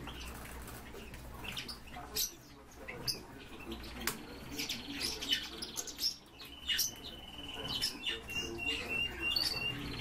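Pet birds calling with high chirps, and a thin, even trill of quickly repeated notes in the second half, over scattered sharp taps and clicks on a tiled floor.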